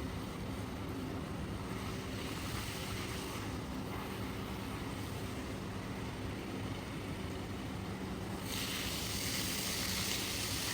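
Steady machine running with a low hum, joined by a louder hiss about eight seconds in.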